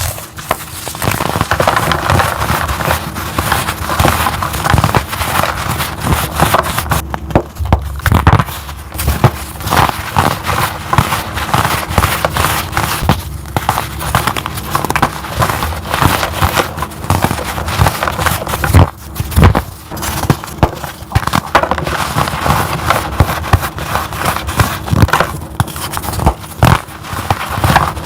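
Dense, continuous crunching and crackling of a crunchy ASMR block, such as gym chalk, being crushed, made of many small crisp cracks, with two short lulls.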